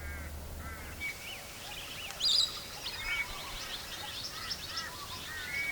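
Australian ringneck parrots calling: a string of short, sharp chirps and whistles from several birds, overlapping at different pitches, with one louder call about two and a half seconds in.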